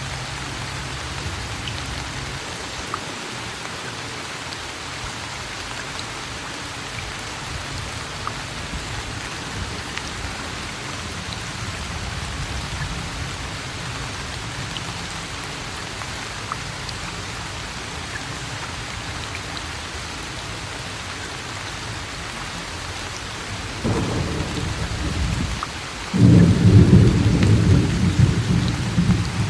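Steady rain falling, with scattered drops ticking close by. Near the end thunder rumbles, dropping out for a moment and then coming back louder.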